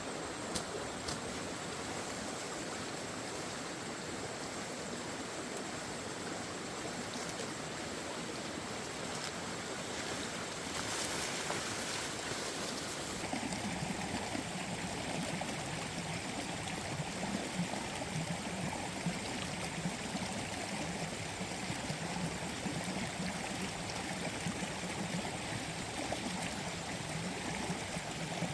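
Steady running water, getting fuller and lower from about halfway through.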